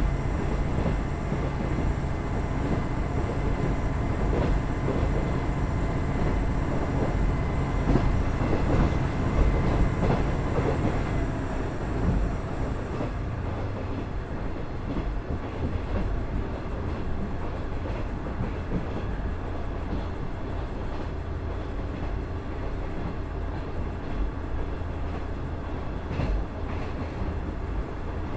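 Inside a KiHa 110 series diesel railcar under way: its Cummins DMF14HZA diesel engine runs beneath steady wheel and rail noise. The engine note drops back about twelve seconds in, and the car runs on with the rail noise continuing.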